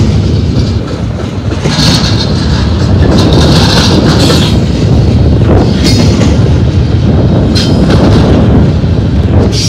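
Double-stack container train's well cars rolling past close by: a loud, steady rumble of steel wheels on rail with rhythmic clacks as each truck passes, and a few brief high-pitched wheel squeals.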